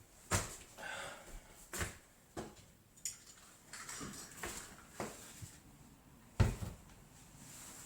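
Scattered light knocks and clicks at irregular intervals, the loudest about six and a half seconds in, from tools and a wooden door being handled during a glue-and-pin-nail repair.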